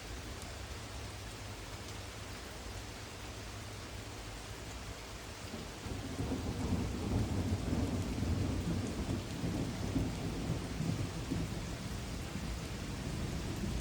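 Steady rain falling, with a long low roll of thunder that builds about halfway through and rumbles on to the end.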